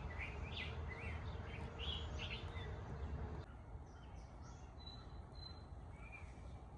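Ducklings peeping: short high chirps repeated many times over a low background rumble that drops away about three and a half seconds in.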